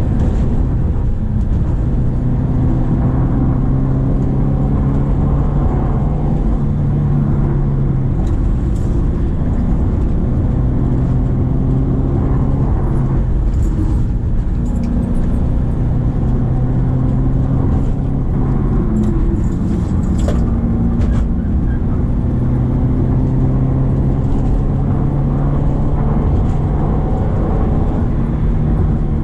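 Subaru Impreza XV's 2.0-litre four-cylinder boxer engine pulling uphill under load, its pitch rising slowly in stretches and breaking off and dropping several times. A steady low road rumble runs under it, with a few brief clicks in the middle.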